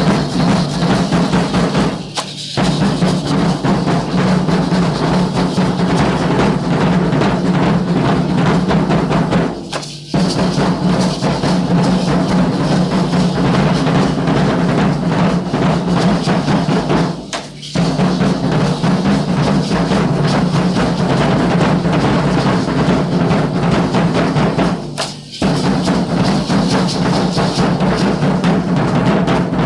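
The drums of a Guadalupana dance group beat a dense, continuous rhythm, breaking off for a moment four times at roughly seven-to-eight-second intervals.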